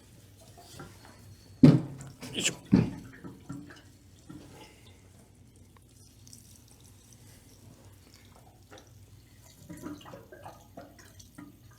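Diesel being poured from a jerry can into a Kubota tractor's fuel tank: a few sharp knocks about two seconds in, then faint, irregular trickling of fuel running in.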